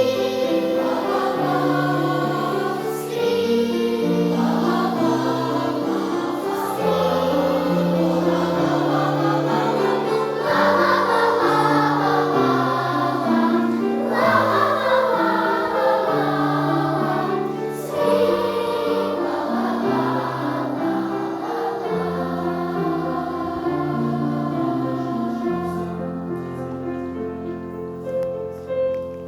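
Choir singing a song in harmony, sustained notes moving from chord to chord. The music gets quieter over the last few seconds.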